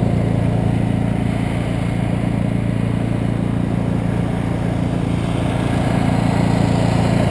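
Engine idling steadily, a low even rumble that holds the same pitch throughout.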